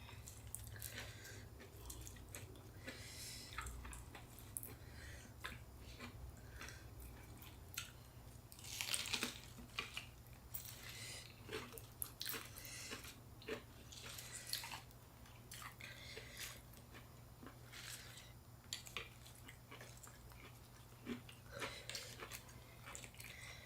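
Close-up chewing and biting of fresh spring rolls filled with boiled shrimp and raw vegetables, heard as quiet, irregular mouth sounds. There is a louder stretch about nine seconds in.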